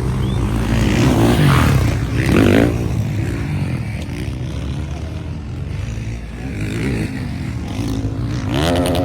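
MX1 motocross motorcycles racing, their engines revving up and down as they accelerate, with a strong rising rev at about two seconds in and again near the end.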